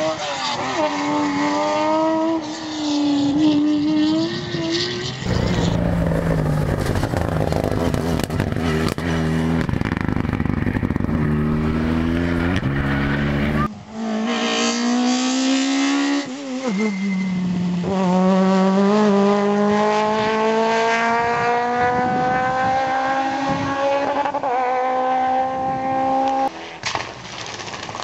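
Rally cars at full throttle, engines revving hard and climbing in pitch, then dropping at each gear change. Near the end one car accelerates in a long, steady rising pitch before a sudden cut.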